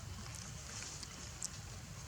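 Low wind rumble on the microphone, with a faint hiss and a few scattered light clicks and rustles.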